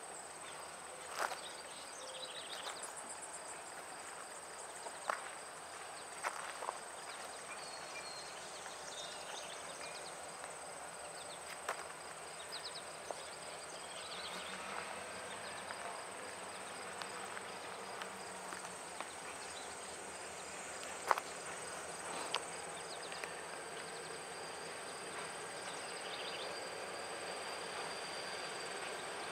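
Summer insects trilling steadily in a high, thin pitch, with scattered faint clicks and short chirps from other insects.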